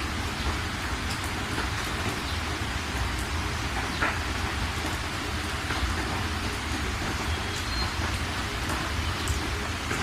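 Steady rain falling, with scattered individual drops striking a surface and a low rumble underneath.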